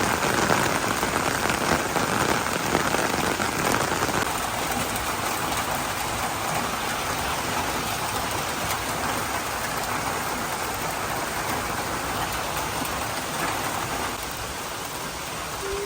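Rain falling steadily: a continuous hiss of drops, a little heavier in the first few seconds.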